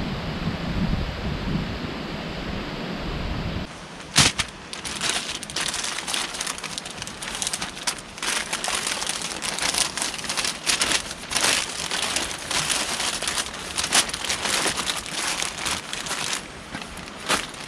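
Wind buffeting the microphone for the first few seconds, then, after an abrupt change, a dense run of irregular crackles and rustles.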